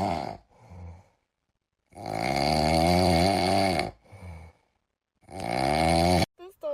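A pet snoring: one long snore of about two seconds, a short faint breath after it, then a second, shorter snore near the end.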